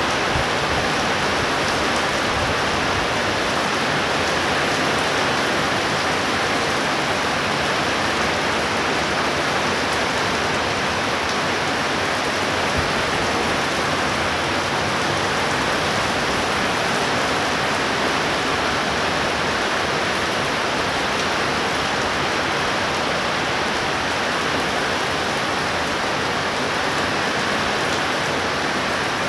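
Heavy rain pouring down in a thunderstorm downpour, a dense, steady hiss that holds even throughout.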